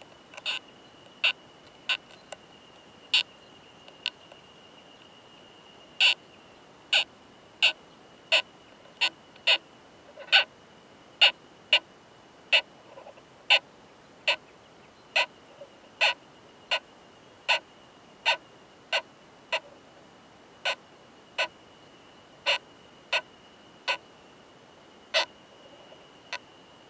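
Male オオマダラコクヌスト (a large trogossitid bark-gnawing beetle) during mating, making a series of sharp, hard clicks like 'kan kan kan', about one every 0.7 s at an uneven pace, with a pause of a couple of seconds early on.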